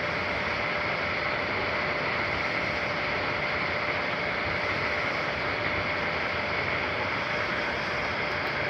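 A 3D printer running mid-print: a steady whirring hiss from its fans, with a faint constant whine.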